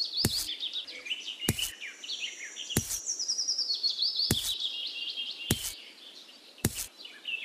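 Birds chirping: a high twittering trill that steps down in pitch, heard twice. Six sharp clicks are spaced evenly about once a second.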